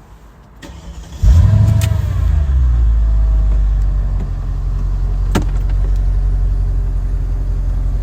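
Mercedes SL55 AMG's supercharged V8 cranked by the starter and catching about a second in with a brief rev flare, then settling into a steady idle. A single sharp click a few seconds later.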